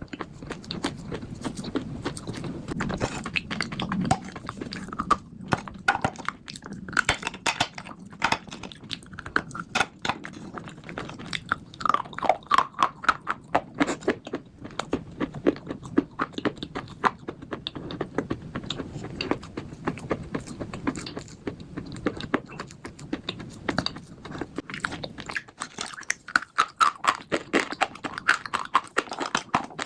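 A person biting and chewing crunchy slate bars: a dense run of sharp crunches and clicks, several a second.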